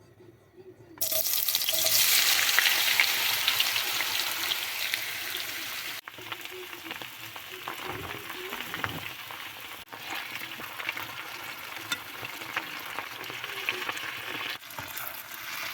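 Potatoes frying in hot oil in a pan: a dense sizzle starts suddenly about a second in, loudest at first and slowly settling, with a few abrupt breaks.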